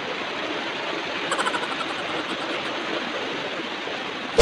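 Steady rush of falling water from a waterfall, with a sudden loud thump right at the end.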